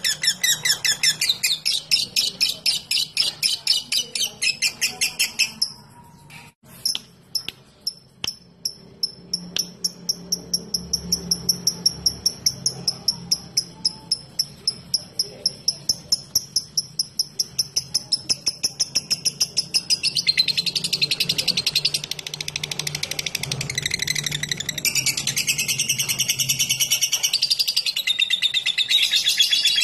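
Lovebird chattering in a fast, long trill (ngekek), breaking off about six seconds in. It then gives a long run of sharp, evenly spaced ticking calls (ngetik), several a second, and goes back into fast chattering about twenty seconds in.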